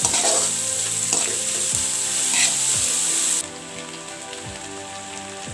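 Vegetables sizzling as they fry in hot oil in a wok, stirred now and then with a metal slotted spoon. The sizzle drops abruptly to a quieter level about three and a half seconds in.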